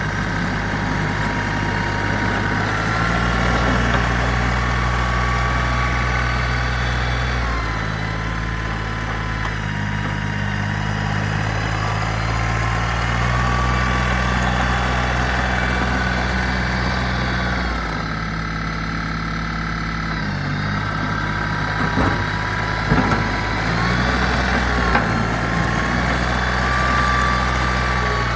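Iseki TPC 15 crawler tractor's small diesel engine running steadily, its note stepping down and up a few times. A fainter whine rises and falls over it, and a few sharp knocks come about two-thirds of the way through.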